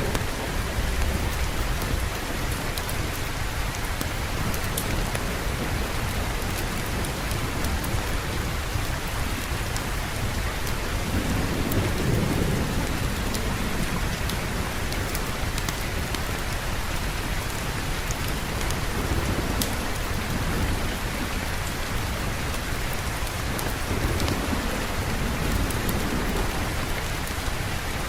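Steady heavy rain pouring, with low rolls of thunder swelling up about twelve seconds in and again near the end.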